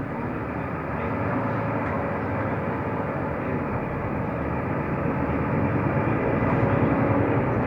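Mercedes-Benz O345 Conecto LF city bus driving, heard inside the cabin: steady engine and road noise, getting a little louder in the second half.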